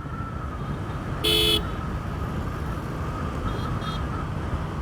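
Road traffic running past, with one short vehicle horn toot about a second in and two fainter short beeps near the end.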